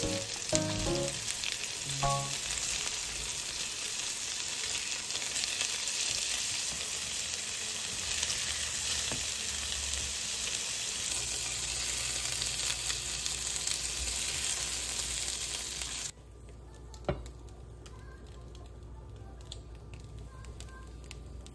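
Hamburger steak patties of ground meat, mushroom and onion sizzling in oil in a nonstick frying pan, with light clicks and scrapes of a spatula as they are turned. The sizzle stops abruptly about sixteen seconds in.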